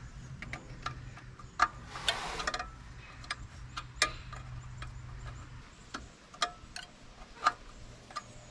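Scattered sharp clicks and clinks of hand tools on the metal fuel-line fitting and carburetor, about a dozen spread out irregularly, with a short scrape about two seconds in. A faint low hum stops about halfway through.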